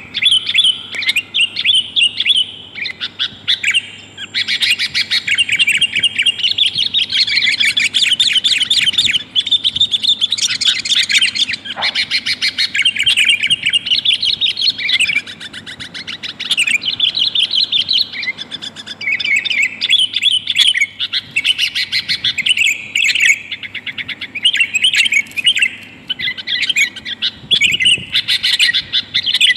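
Sooty-headed bulbul (kutilang) calling in fast, excited chattering runs of short notes, almost without a break, easing off briefly twice; a lure call presented as a female calling to a male.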